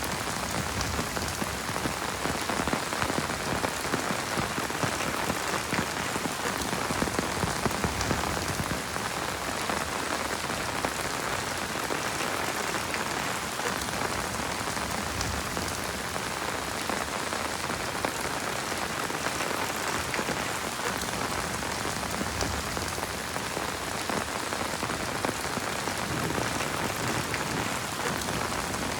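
Heavy rain falling steadily, a dense, even patter of drops hitting surfaces close by.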